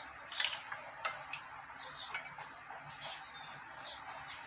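A utensil clinking and scraping against a bowl in a few short strokes as chicken pieces are dipped and turned in beaten egg.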